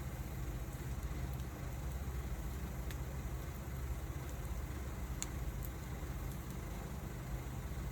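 Wood fire burning, with a few sharp crackles about three and five seconds in, over a steady low rumble.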